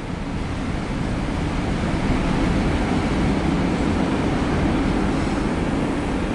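Empty autorack freight train rolling past, a steady rumble of its cars' wheels on the rails that builds a little in the first second and then holds level.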